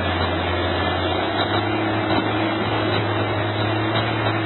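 Engine of a vehicle or heavy machine running steadily, with a slight rise in its low hum about a second in.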